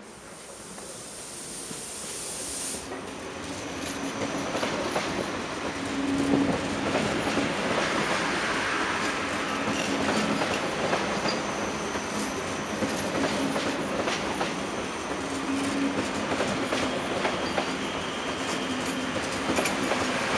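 An ICE electric high-speed train rolls into the station past the platform, its wheels clicking over rail joints. It grows louder over the first six seconds, then runs steadily with a faint low hum under the rolling noise.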